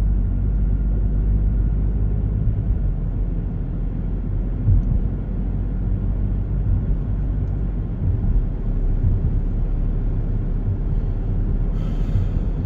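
Steady low road and engine rumble heard from inside a moving car, with a short hiss near the end.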